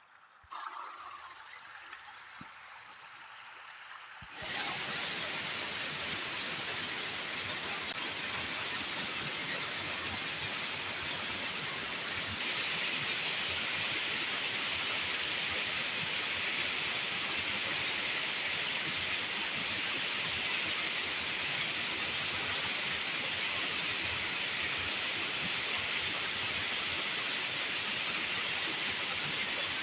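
Heavy rain falling as a steady, even hiss. It starts suddenly about four seconds in, after a quieter stretch.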